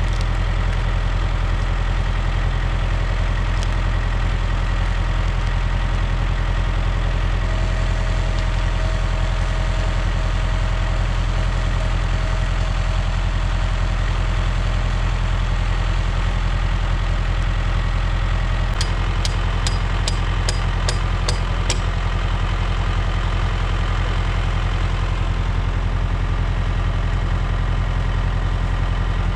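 An engine idling steadily. About two-thirds of the way through, a quick run of about eight sharp ticks, roughly three a second, sounds over it.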